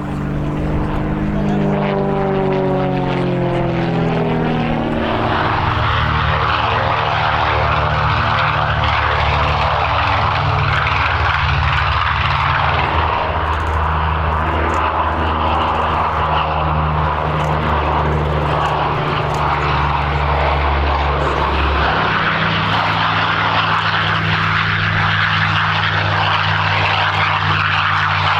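Gamebird GB1 aerobatic monoplane's propeller engine flying a display. The engine note falls in pitch over the first few seconds out of the push over, then settles into a steady drone whose pitch shifts a couple of times as power and attitude change.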